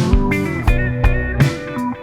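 Electric guitar, a Clifton dual-humbucker Telecaster, played over a backing track. Held, picked notes ring over a steady drum beat and bass.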